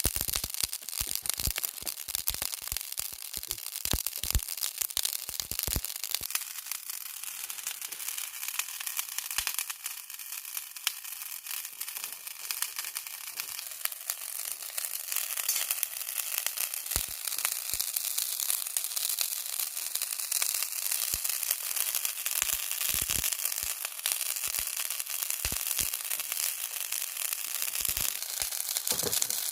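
Large prawns grilling on a bed of salt over a wood fire: a steady sizzle with frequent sharp crackles and pops, the pops thickest in the first six seconds and again near the end.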